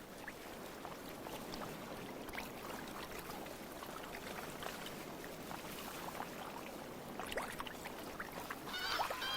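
Surf and water washing over the shallows with small scattered splashes, then harsh squabbling calls of Socotra cormorants start near the end.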